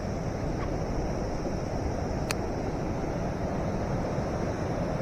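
Fast-flowing mountain river: a steady rush of water, with one sharp click a little over two seconds in.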